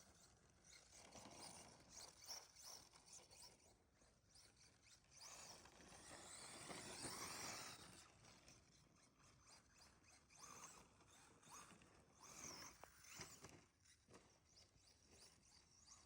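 Faint Tekno SCT410SL electric 4x4 RC short course truck driving: its motor whine rises and falls in several passes, loudest about halfway through and again a little later, with its tyres working through snow.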